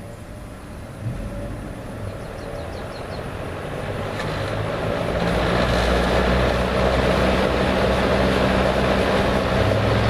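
Frigid B3300 box fan, with its four-wing metal blades, switched to high with a click about a second in. It spins up, a motor hum with a rushing of air growing louder over several seconds, then runs steadily at full speed.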